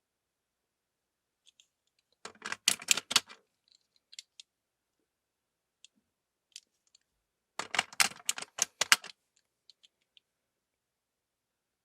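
Rapid clicking and clattering of hard plastic parts in two bursts, about two seconds in and again near eight seconds, with a few lone clicks between.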